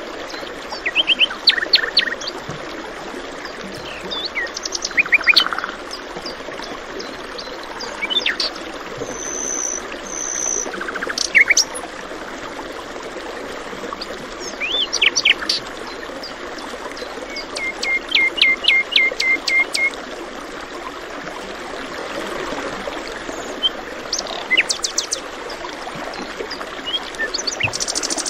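Several songbirds chirping and trilling in short, scattered phrases over a steady background of flowing water. About two-thirds of the way through, one bird gives a fast run of about a dozen repeated notes.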